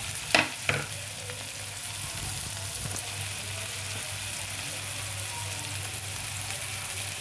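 Chopped onion, tomato and green chilli sizzling steadily in hot oil in a metal kadhai, with two sharp taps of the metal spatula against the pan near the start. A low steady hum runs underneath.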